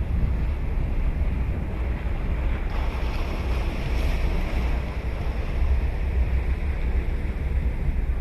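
Ocean waves breaking and washing up a beach, with wind rumbling on the microphone throughout; a wave's hiss swells about three seconds in.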